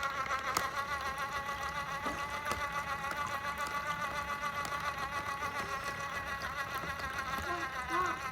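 Small electric spinner's motor running with a steady high-pitched hum, spinning the water out of its contents.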